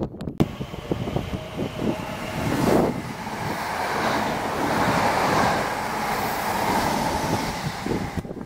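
Greater Anglia electric multiple unit running past the platform: a rush of wheels on rail and moving air that builds, holds steady with a faint hum, and cuts off sharply near the end as the train clears. Gusty wind buffets the microphone.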